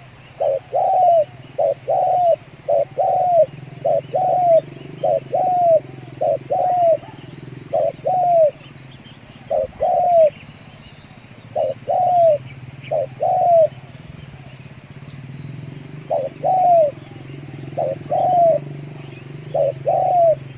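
Spotted dove (tekukur) cooing: a long run of short, arched coo notes in small uneven groups, separated by brief pauses.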